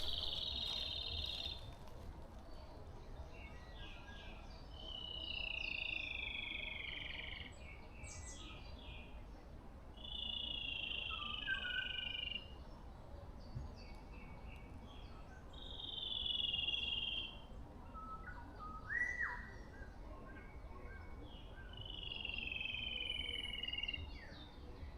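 A bird of a species unfamiliar to the listener repeats one drawn-out call five times, about every five to six seconds. Each call lasts a second or two and some fall slightly in pitch. Other birds give short, fainter chirps in between.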